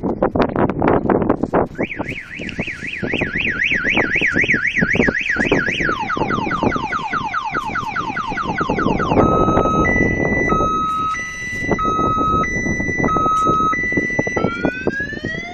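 Car alarm siren cycling through its tones: rapid pulses at first, then a fast up-and-down warble, then a run of falling sweeps, then a high-low two-tone, and rising sweeps near the end.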